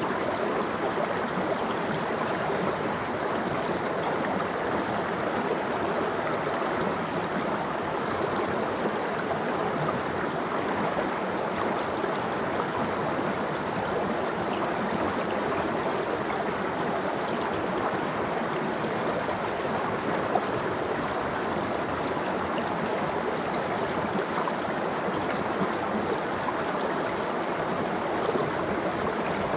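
Steady rush and babble of a mountain stream flowing over rocks.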